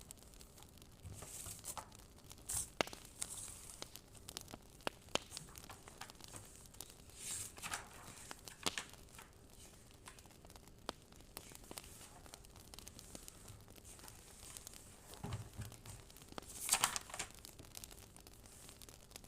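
Sparse faint crackles and clicks from a crackling fire ambience, with a few brief paper-like rustles, the loudest about 17 seconds in.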